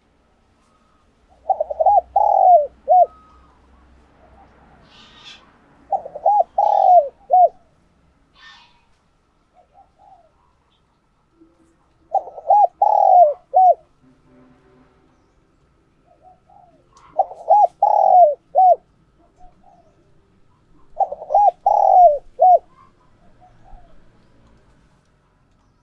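Spotted dove cooing: five phrases of three or four coos each, several seconds apart, with faint chirps between them.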